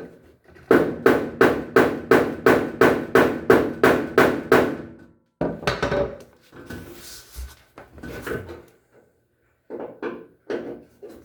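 Hammer blows on a washer part freshly soaked in penetrating oil: a quick, even run of about fourteen sharp strikes, roughly three a second, followed by a few scattered quieter knocks and clatter.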